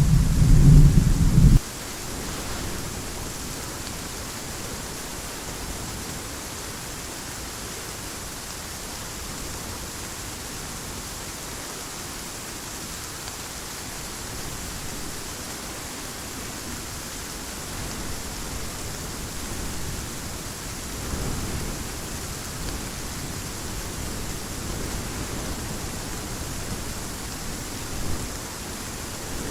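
Steady heavy rain hissing throughout. A loud low thunder rumble opens it and cuts off abruptly about a second and a half in, and fainter low rumbles of thunder swell later on.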